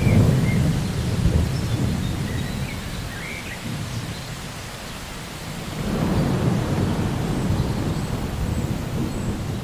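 Steady rain falling with two low rolls of thunder, one at the very start and another about six seconds in, each dying away over a few seconds.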